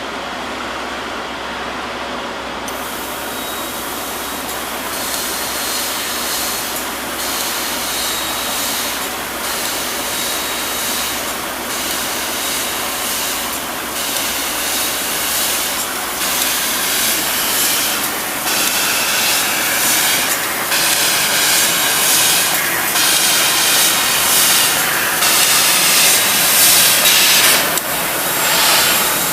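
CNC laser cutting machine cutting sheet metal: a steady hiss of the gas jet at the cutting head, with the high part of the hiss briefly dropping out every couple of seconds. It grows slowly louder.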